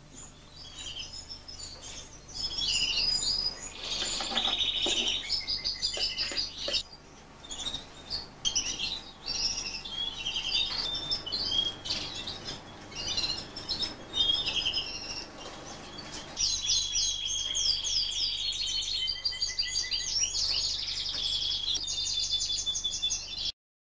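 Fife Fancy canaries singing: rapid rolling trills and chirps from several birds overlapping, busiest in the last several seconds, then cutting off abruptly just before the end.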